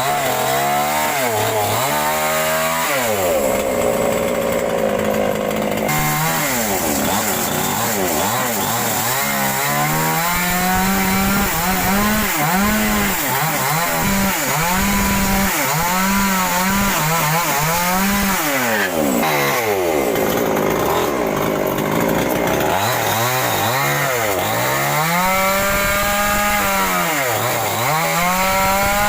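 Power carving tool cutting into wood, its motor pitch repeatedly sagging and recovering as it bites and lets off while thinning a carved eagle's wings.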